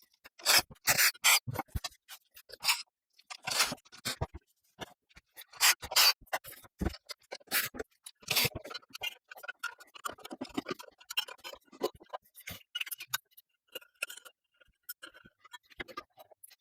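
Ceiling fan parts being handled and fitted together by hand: irregular scraping, rubbing and clicking, busier in the first half and sparser and fainter towards the end.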